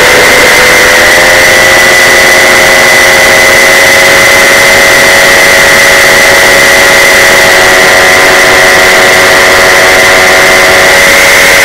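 Paramotor engine and propeller running loud and steady in flight, the engine pitch rising slightly in the first second and then holding.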